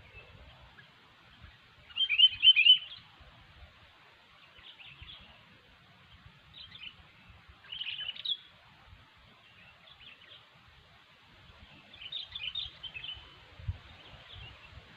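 Sooty-headed bulbul (kutilang) chirping calls in short chattering bursts. The loudest burst comes about two seconds in, with more near eight and around twelve seconds.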